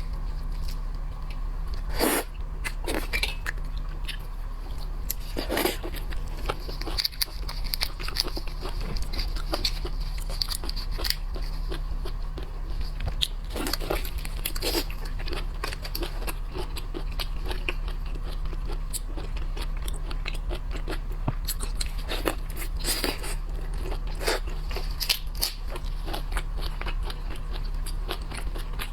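Close-miked eating of shrimp: irregular crunching, biting and wet chewing as the shells and meat are bitten, with a steady low hum underneath.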